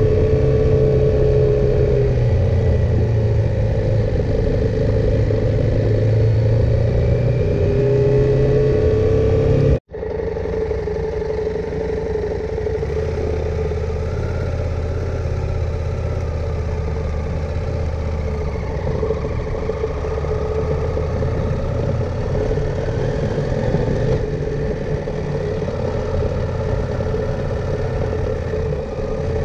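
KTM 890 Adventure R parallel-twin engine running while riding, its note rising and falling a little, over a steady rush of wind and road noise. About ten seconds in, the sound cuts out for an instant and picks up again with a lower, steadier engine note.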